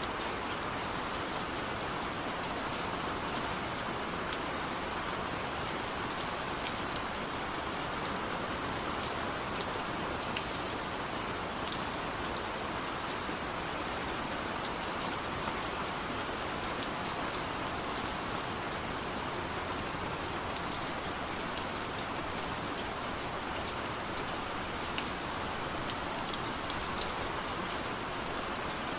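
Steady rain falling: an even hiss with scattered sharp taps of individual drops.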